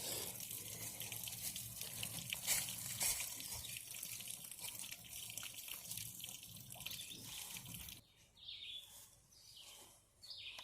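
Water running and splashing from a hose fed by a SHURflo RV water pump being tested after a JB Weld leak repair; the pump body is no longer leaking. The water sound cuts off suddenly about eight seconds in.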